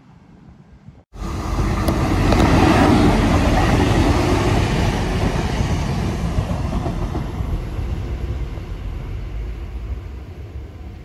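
A train running through the station close by. The sound starts abruptly about a second in, is loudest soon after, then fades steadily as it moves away.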